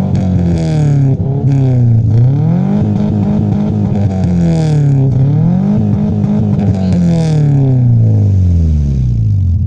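Car engine revved three times through its exhaust, each rev climbing, holding briefly, then dropping back, the last one falling away to idle near the end.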